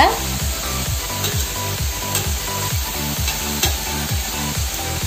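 Chopped onion, tomato and mushroom sizzling in oil on a heavy iron dosa griddle, with a spatula scraping and tapping the griddle a few times as they are stirred. Background music with a steady beat plays underneath.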